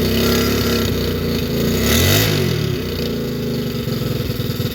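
110cc Tao pit bike's small single-cylinder engine running just after its first start in a long time, revved up and back down once about two seconds in.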